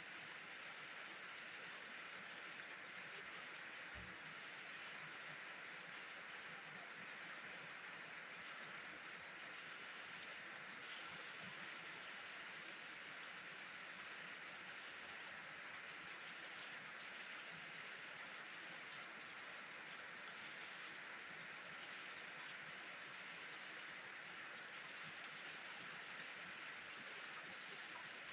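Steady rain falling, a fairly faint, even hiss of drops, with one sharper tick about eleven seconds in.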